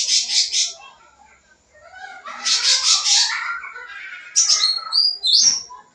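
Cucak ranting (grey-bellied bulbul) singing hard. Its song runs through varied phrases: bursts of rapid high, buzzy repeated notes, lower warbling passages, and a few short whistled glides near the end.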